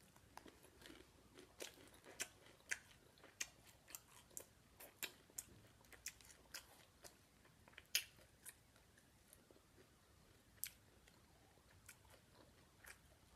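A person chewing a mouthful of crunchy hard-shell taco with lettuce and tomato: a faint, close run of crunches and crackles, about one or two a second, a few sharper than the rest.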